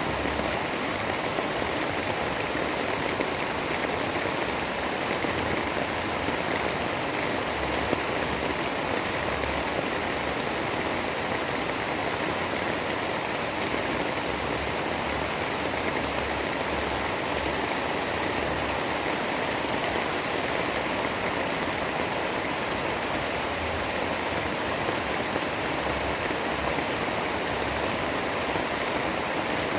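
Steady storm ambience: a dense, even hiss with no let-up and no distinct claps or gusts standing out.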